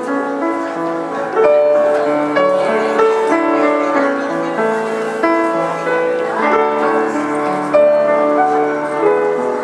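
Piano playing a melodic piece, held notes and chords ringing on beneath a moving melody, with a few firmer-struck notes along the way.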